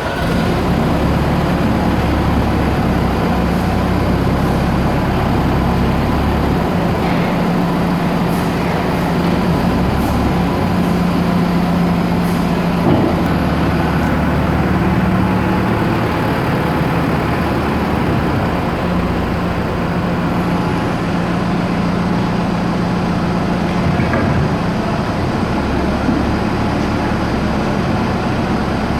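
Volvo BL70 backhoe loader's diesel engine running steadily, its note shifting a few times along the way.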